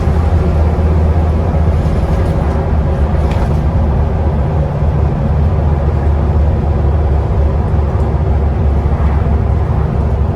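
Scania Enviro 400 double-decker bus running on the road, heard from inside the lower deck: a steady, loud low engine drone with road and cabin noise over it.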